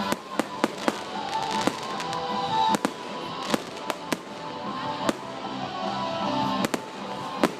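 Fireworks bursting overhead in a dozen or so sharp, irregularly spaced bangs over a continuous crackle, with music playing underneath.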